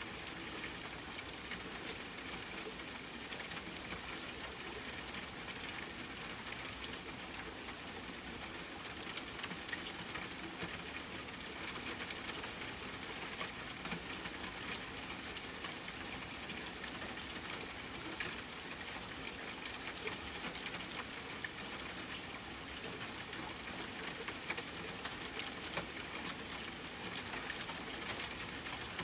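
Steady rain falling, an even hiss dotted with the ticks of individual drops hitting a surface.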